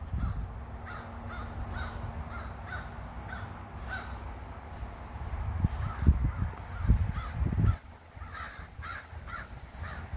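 A bird calling over and over in short, quick notes, about three a second. Partway through come several louder low rumbling bumps on the microphone.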